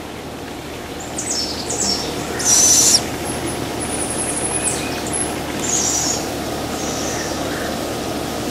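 Fledgling birds of prey calling. The loudest is one raspy, hissing call about two and a half seconds in. Fainter thin, high calls come before and after it.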